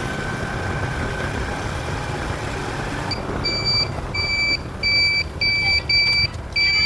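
A vehicle engine running, then a reversing alarm beeping six times in a steady rhythm about every two-thirds of a second, starting about three seconds in.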